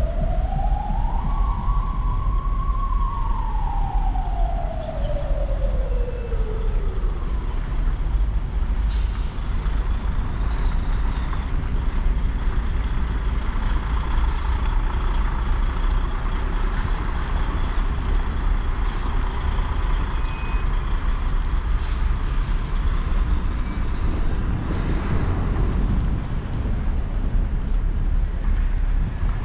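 A siren gives one slow wail, rising, holding briefly and falling away over the first several seconds. Steady street-traffic noise with a low rumble runs underneath.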